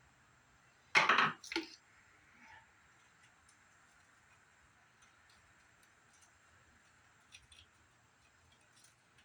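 A sharp, loud crack about a second in, with a smaller knock right after, then a few faint clicks: the plastic and metal parts of a CRT monitor being pried at by hand.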